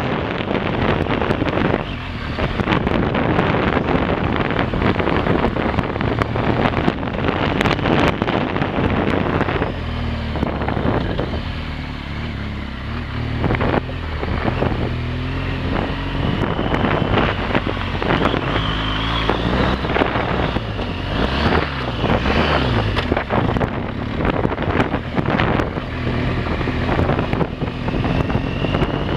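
Motorcycle engine running under way, its revs rising and falling over and over, with wind buffeting the microphone.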